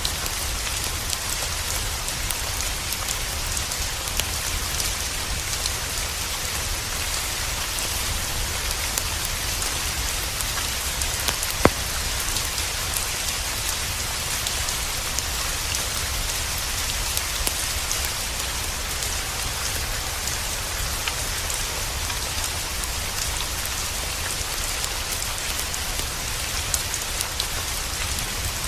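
Steady rain falling, an even hiss with scattered individual drop hits and one sharper drip about eleven seconds in.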